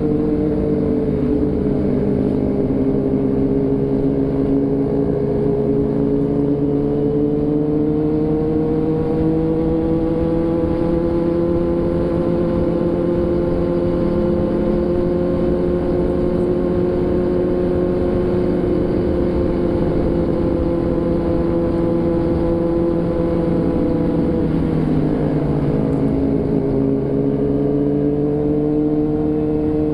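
A vehicle engine running steadily while travelling. Its note drifts slowly up and down with small changes in speed, dropping and recovering about three-quarters of the way through, over a constant low rumble.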